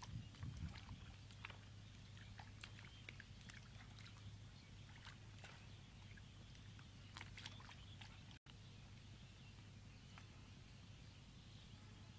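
Faint wet squelches and clicks of bare hands digging into soft, waterlogged mud, over a low steady background hum, with a slightly louder squelch about half a second in.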